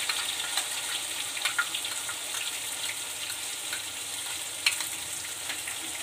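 Onion paste frying in hot mustard oil in a kadhai: a steady sizzle with scattered pops and clicks, and one sharper click about three-quarters of the way through.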